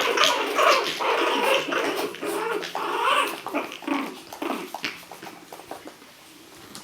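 Five-week-old Shih Tzu puppies making many short, high-pitched growls and whimpers, busiest in the first four seconds and dying down near the end.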